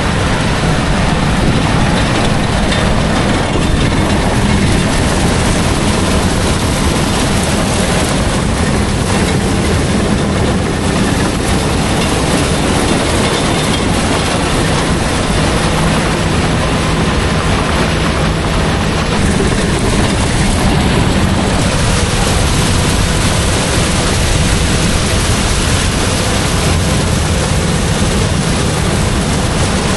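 Heavy farm machinery running steadily during harvest: a loud, even rumble with a low engine hum.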